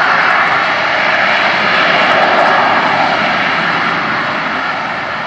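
Sea Harrier's Rolls-Royce Pegasus jet engine running loud and steady as the jet hovers down into a vertical landing, easing off slowly near the end.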